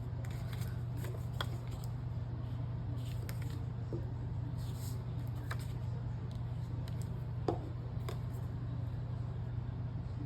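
Paper handling: light rustling and small taps and clicks as glued paper pockets are lined up and pressed onto a page, over a steady low hum.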